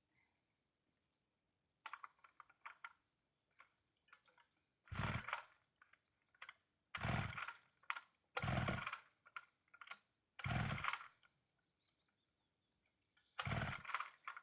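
Chainsaw being pull-started: five hard pulls of the recoil starter cord a second or two apart, each a short rasping turnover, with small handling clicks before them. The engine does not catch and run.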